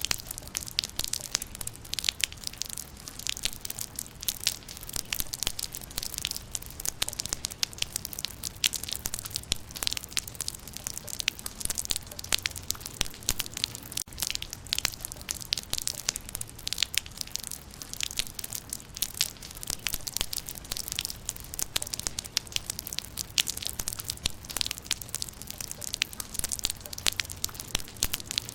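Rain falling on leaves: a dense, steady patter of sharp, irregular drop ticks, strongest in the high range.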